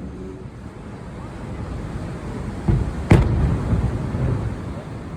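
Aerial fireworks: a low, rumbling background of shell bursts, with one sharp bang about three seconds in.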